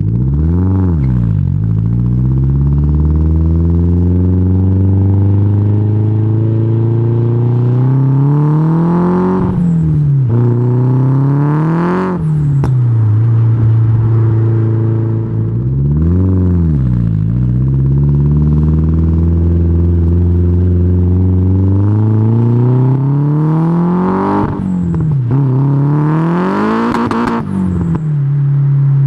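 Nissan S14 Silvia's SR20DET turbocharged four-cylinder engine and exhaust pulling hard. The engine speed climbs steadily over several seconds, then falls sharply, about four times, with a deep rumble at the low points.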